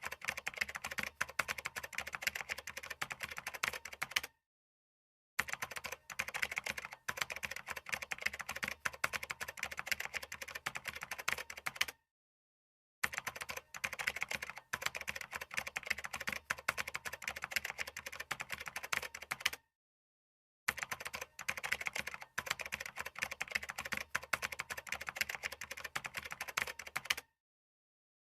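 Fast, continuous typing on a computer keyboard, a dense patter of key clicks. It breaks off into about a second of dead silence roughly every seven and a half seconds, four times.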